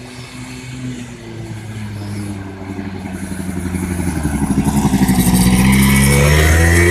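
Small 100cc quad bike engine running and growing steadily louder, then revving up near the end with its pitch rising.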